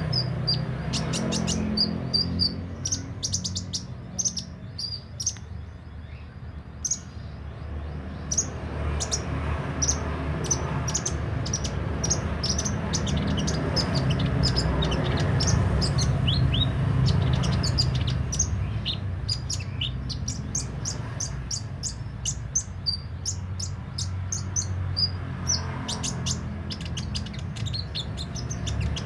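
A sunbird (kolibri ninja) singing a rapid run of short, high chips and quick downward flicked notes, over a steady low hum.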